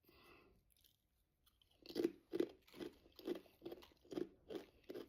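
A person chewing a crisp Pringles potato chip with the mouth close to the microphone: steady crunches starting about two seconds in, roughly two to three a second.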